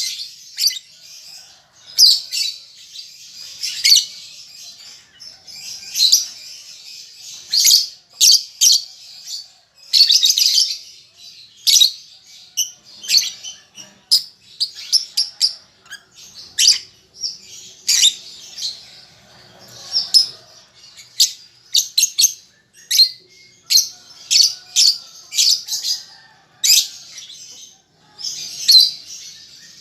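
Young lovebird calling with sharp, high chirps, some single and some in quick runs, with a few longer chattering bursts.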